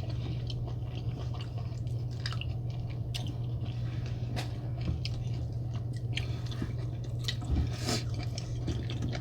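Close-miked eating of a sauce-covered seafood boil: wet, squishy chewing and lip smacks with scattered short clicks, over a steady low hum.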